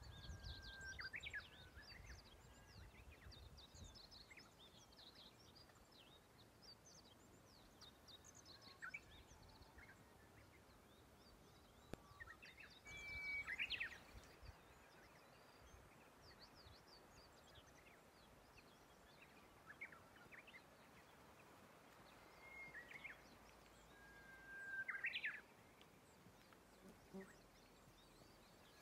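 Faint songbirds chirping and whistling here and there in the open air, with a few longer whistled notes near the start, about halfway and near the end. A low rumble fills the first few seconds.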